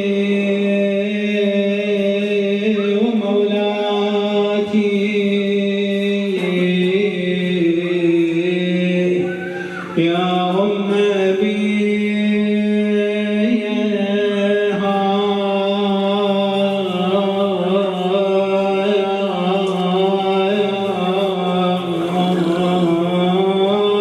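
A man chanting an Arabic na'i, a Shia mourning elegy, in long held, wavering notes, with a short breath break about ten seconds in.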